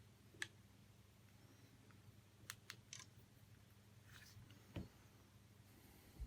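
Near silence: a faint steady low hum, with a few soft scattered clicks and taps.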